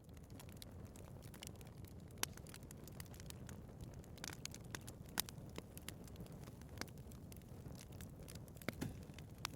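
Wood fire burning in a fireplace: a low, steady rumble of flames under frequent sharp crackles and pops, the loudest pops about two seconds and five seconds in.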